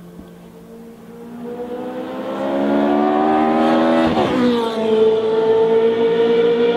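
Race car engine accelerating hard, its note climbing steadily and growing loud, then dropping sharply in pitch about four seconds in and running on at a steady high level.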